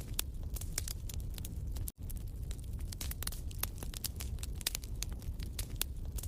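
Wood fire in a fireplace crackling, with frequent irregular sharp pops over a low steady rumble of the flames. The sound cuts out for an instant about two seconds in.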